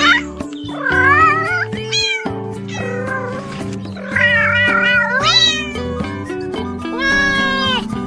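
Cat meowing several times, long wavering meows, over background music with a steady beat.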